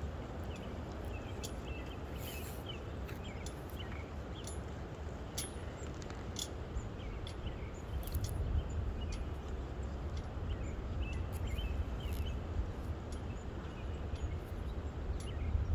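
Small birds chirping outdoors over a steady low rumble, which grows louder about halfway through.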